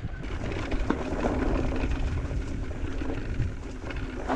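Polygon Siskiu T6E electric mountain bike riding a dirt trail: knobby tyres rolling and chattering over the ground, with the bike rattling in many small ticks and a steady low hum underneath, plus wind on the microphone.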